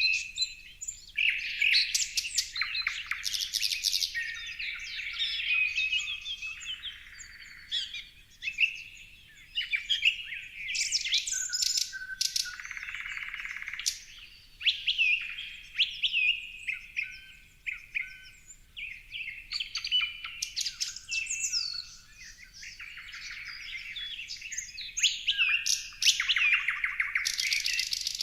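Several songbirds chirping and singing at once, a busy mix of short whistled notes and calls. There are fast rattling trills a few seconds in and again near the end.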